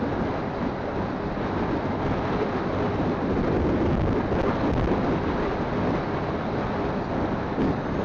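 Wind rushing over a phone microphone on a moving motorcycle, a steady dense noise with the ride's engine and road noise underneath. It swells slightly about halfway through.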